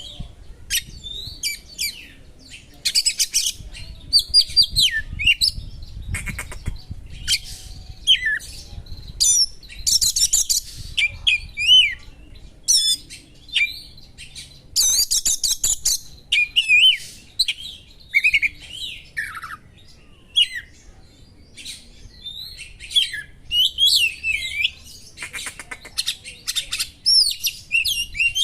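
Oriental magpie-robin (kacer) singing a fast, varied song of chirps, whistles and short harsh rasping phrases, with mimicked calls of small birds woven in.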